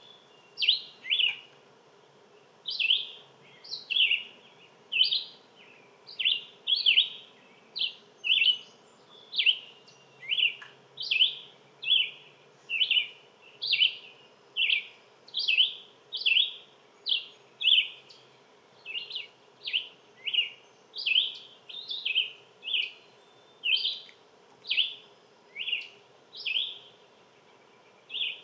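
A songbird chirping steadily, giving short, high notes that drop in pitch, about one and a half a second.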